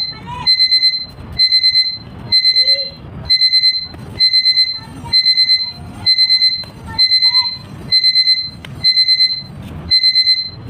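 Electronic alarm beeping in quick groups of four or five high beeps, one group about every second, repeating without a break.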